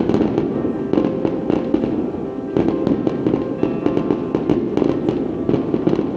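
Aerial fireworks bursting and crackling, with sharp bangs coming several times a second in a continuous barrage, over music playing.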